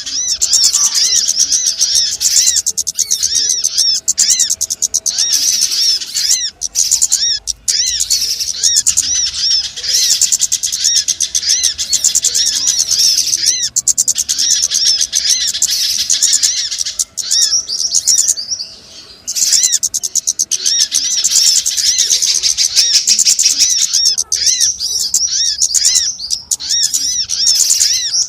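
Bird-lure recording for small songbirds: a dense, nearly unbroken run of rapid, high chirps and twitters, with a brief lull about two-thirds of the way through.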